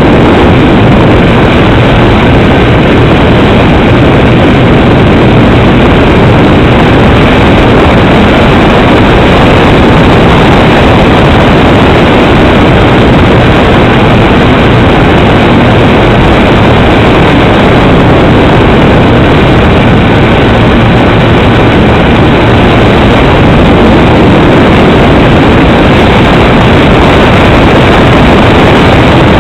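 Cessna 310's twin piston engines and propellers droning steadily and loudly, with no change in pitch or power.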